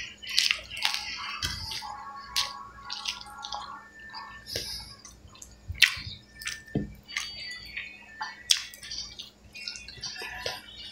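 A person chewing and smacking his lips while eating rice and pork by hand, with many sharp wet mouth clicks and squishy bites. A faint steady low hum sits underneath.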